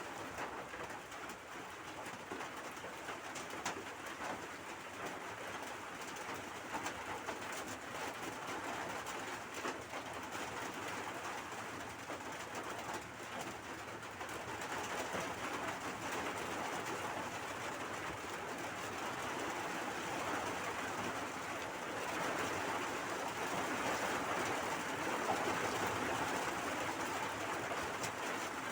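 Steady heavy rain falling, a continuous hiss that grows a little louder about three-quarters of the way through.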